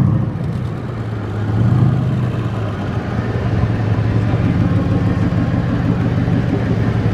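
A car engine running at low revs close by: a steady low drone that swells briefly about two seconds in.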